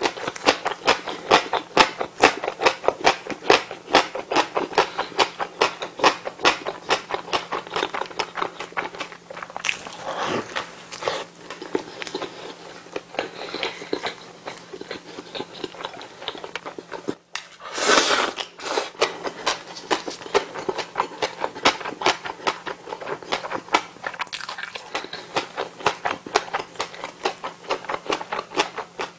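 Close-miked chewing of a McDonald's bulgogi burger with shredded lettuce: fast, wet, crunchy mouth sounds, several a second, with bites into the soft bun and lettuce. About two-thirds of the way in there is a brief lull and then one louder, longer burst of noise.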